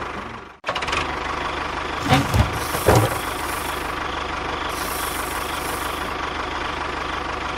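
A small engine-like motor running steadily with a fast low pulsing, with a few loud knocks about two to three seconds in. The sound cuts out briefly just before a second in, then starts again.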